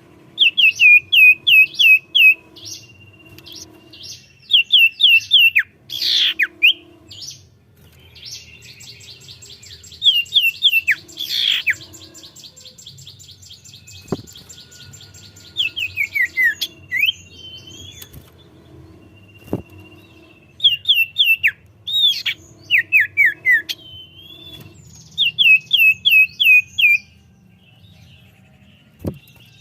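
Common iora (cipoh) singing in full song: repeated runs of five or six quick down-slurred whistles, with one long buzzy rattle about a third of the way through. A faint low hum sits underneath.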